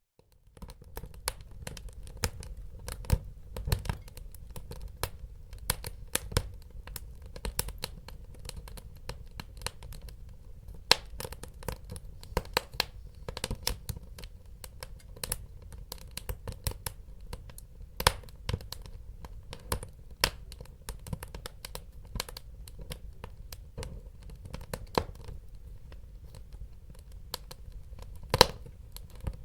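Wood fire crackling: a steady low rumble of burning with dense, irregular snaps and pops, a handful of them much louder than the rest. The sound cuts in just after the start, following a moment of near silence.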